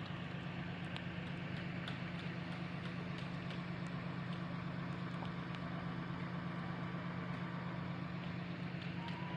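Steady low hum of an idling engine, with faint scattered ticks.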